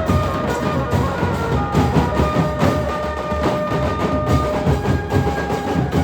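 Nashik dhol band playing: dense, fast dhol drumming with a melody of held notes over it.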